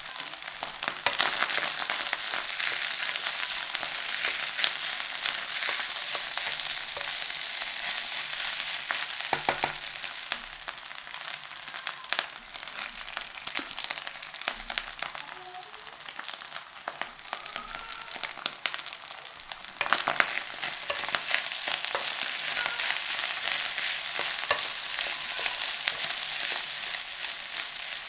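Food sizzling in a hot oiled pan as it is stir-fried, with frequent light clicks and scrapes of the stirring utensil against the pan.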